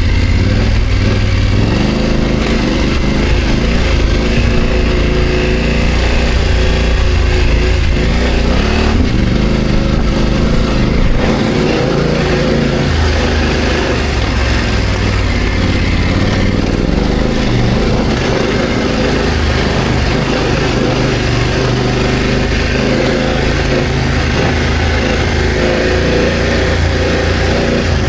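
BMW F900GS's parallel-twin engine running while riding off-road, its pitch rising and falling with the throttle over a steady rushing noise.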